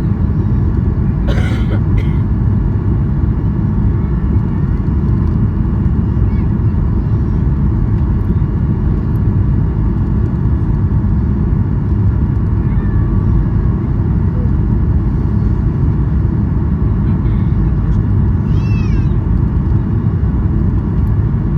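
Steady low rumble of a Boeing 737-800 heard inside the cabin as it rolls on the ground after landing. There is a short burst of hiss about a second and a half in and a brief high call that falls in pitch near the end.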